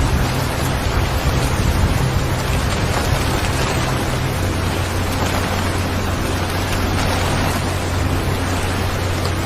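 Steady rain sound, an even hiss of falling rain, with a low steady hum underneath.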